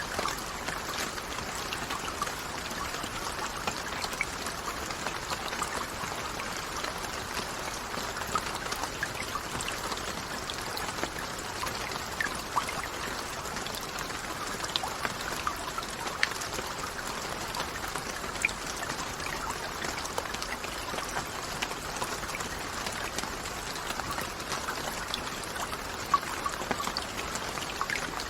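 Steady rain falling, an even hiss with many individual drops ticking and pattering through it.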